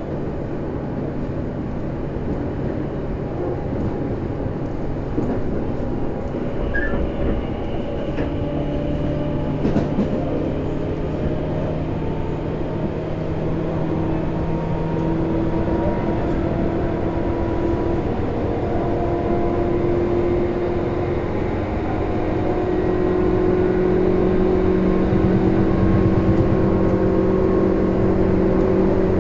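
Tobu 10030 series commuter train running, heard from inside the car: continuous running noise with steady humming tones, growing louder toward the end.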